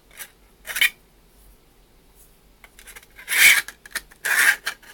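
3D-printed plastic parts scraping against each other as a charging-handle piece is worked into its slot: a short scrape just under a second in, then two longer, louder scrapes about a second apart near the end.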